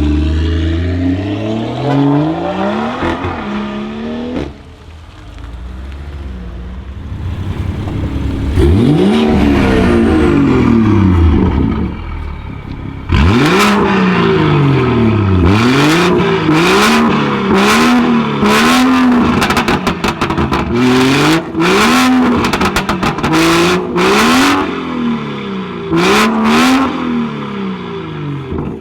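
Exhaust of a stage 2 tuned BMW 440i's turbocharged straight-six, with a catless downpipe and M Performance exhaust, revved up and down repeatedly. In the second half the revs come in quick blips about once a second, with sharp cracks and pops between them.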